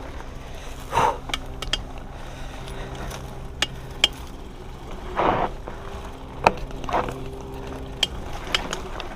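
Hardtail mountain bike rattling over a rough trail: irregular sharp knocks and clicks, a few each second, over a steady rumble, with one louder, broader clatter about five seconds in.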